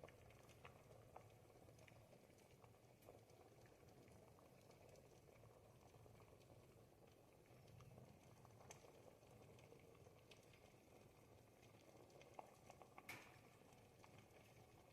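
Pot of thick ribollita soup simmering, faint low bubbling with scattered small pops; one sharper pop about 13 seconds in.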